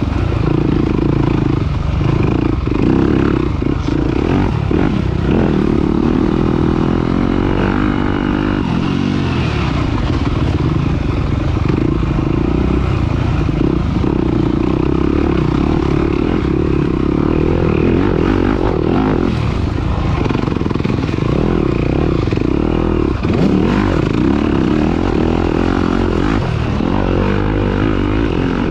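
Off-road racing engine running hard under load, held at high revs with brief dips in pitch as the throttle is worked, with wind and rough-terrain rattle mixed in.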